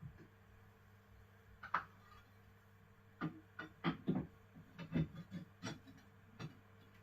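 Hard objects clattering and knocking as a box of odds and ends is rummaged through: one sharp knock about two seconds in, then a run of about a dozen irregular clacks over the next few seconds.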